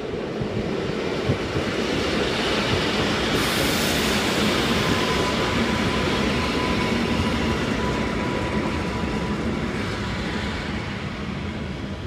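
Electric multiple-unit passenger train passing on the track: wheel and rail rolling noise builds to its loudest a few seconds in, then fades towards the end. A thin, steady high whine runs through the middle of the pass.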